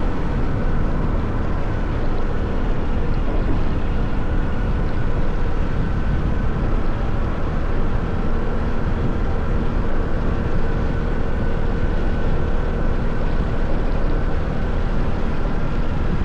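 Motorcycle engine running steadily while riding, a continuous low rumble with a faint steady whine above it.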